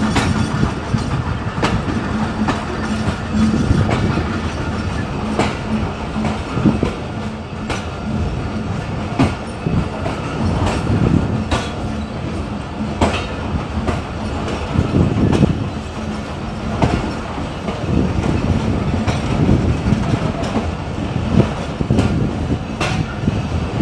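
Passenger train led by a ZCU-30 diesel-electric locomotive rolling into a station at low speed: a low running rumble with a steady engine drone, and the wheels clacking over rail joints at irregular intervals.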